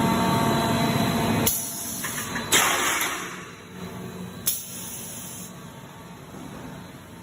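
Square-tube production line machinery running loudly with a steady hum, then cutting out about a second and a half in. A sharp click follows with a hiss lasting about a second, then another click and a fainter hiss.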